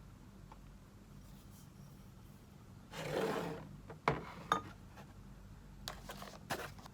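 Household objects being handled: a short rubbing swish about three seconds in, then two sharp clicks and a few lighter taps near the end, over a faint steady room hum.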